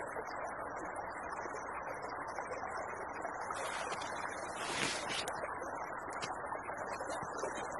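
A small creek flowing steadily, with a brief louder rush of noise lasting about two seconds in the middle.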